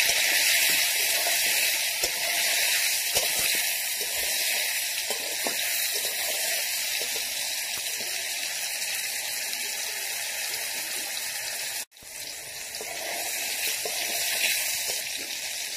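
Bottle gourd pieces sizzling in hot oil in an aluminium kadai: a steady frying hiss, with the spatula scraping the pan now and then. The sound drops out briefly about twelve seconds in.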